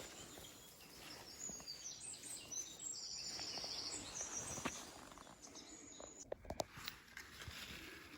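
Faint outdoor ambience with small birds calling, including a short high trill about three seconds in, and scattered rustles and a few sharp clicks near the end as someone moves through vegetation.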